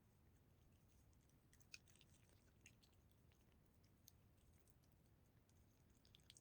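A cat eating, heard faintly: a few small, sharp clicks of chewing, most of them about two seconds in, with a couple more later, over a low background hum.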